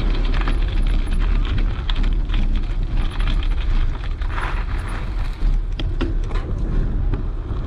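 Wind buffeting the microphone of a camera on a moving bicycle: a steady low rumble with scattered clicks and rattles.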